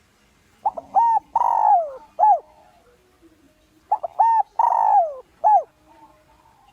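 Spotted dove (Streptopelia chinensis) cooing: two identical song phrases about three seconds apart, each a few short coos, then a long note falling in pitch, then one last short coo.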